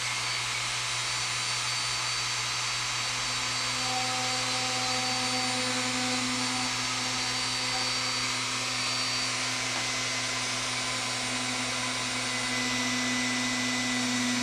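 Dremel rotary tool with a small drill bit running steadily at high speed, boring a hole through a thin wooden model sailboat mast. A lower steady tone joins the whine about three seconds in and holds.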